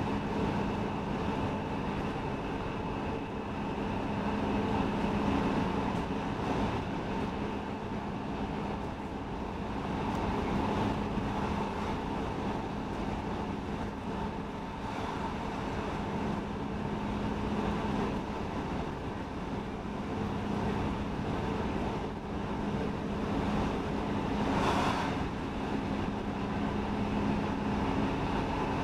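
Interior running noise of an X10 electric commuter train travelling at speed: steady wheel-on-rail rumble with a few steady humming tones. Near the end a brief rushing hiss rises and fades.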